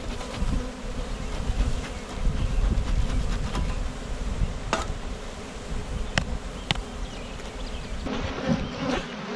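Honey bees buzzing around an opened beehive, a steady dense hum over a low rumble, with a few sharp clicks around the middle.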